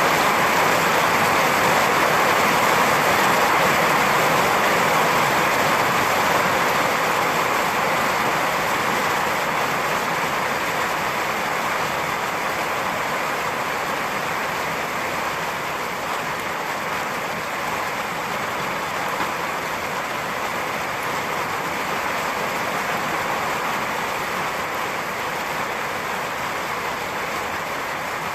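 Steady heavy rain falling, a dense even hiss with no thunder claps, slowly easing a little in loudness.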